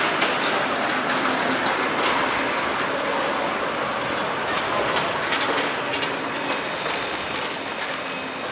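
Tram running on its rails: a steady rushing rolling noise with scattered clicks and rattles, easing off slightly toward the end.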